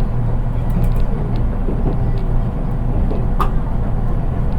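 Interior running noise of a JR East 183 series electric train, heard in its KuHa 183 driving trailer car, which has no motors: a steady low rumble of wheels on rail with scattered light clicks and one sharper click a little after three seconds in.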